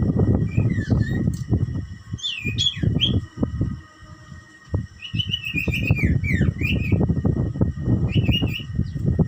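A songbird chirping in several short twittering phrases of quick up-and-down notes, with pauses between them. Irregular low rumbling and knocking noise runs under the calls.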